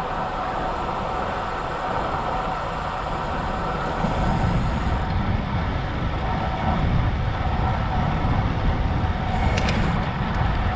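Wind rushing over a bike-mounted action camera's microphone, mixed with tyre and road noise from a road bike rolling along at speed; the low rumble grows stronger about four seconds in.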